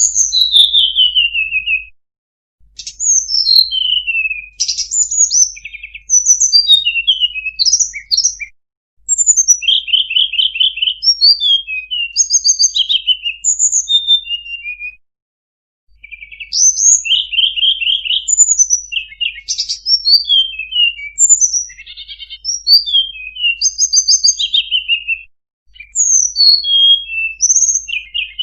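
Tledekan gunung songbird singing: loud phrases of rapid high chirps, trills and down-slurred whistles lasting several seconds each, with brief pauses about 2, 8, 15 and 25 seconds in.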